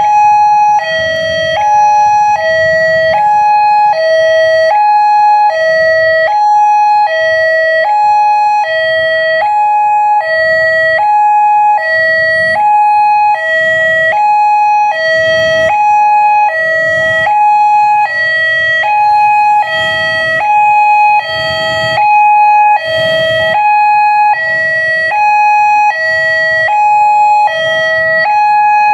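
Railway level-crossing warning alarm sounding a loud electronic two-tone signal, high then low, repeating about once a second, warning that a train is coming. A low rumble runs underneath.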